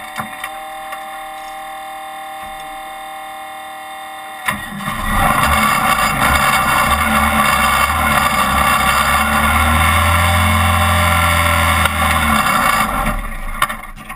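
Off-road race truck engine heard from inside the cab, running at a steady speed at first. About four and a half seconds in it gets much louder under hard throttle, with a heavy wash of road and wind noise, then eases off near the end.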